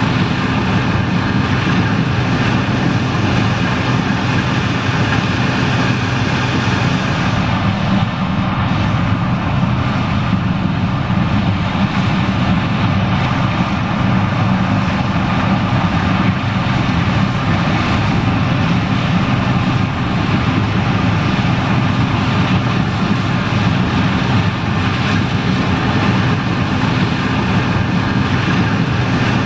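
John Deere 9870STS combine running steadily while harvesting corn: a loud, even drone of the diesel engine and machinery with a steady low hum.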